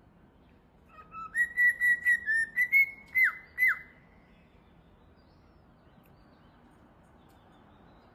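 A bird's clear whistled call: a quick run of about eight short notes, then two sharply falling notes, lasting about three seconds.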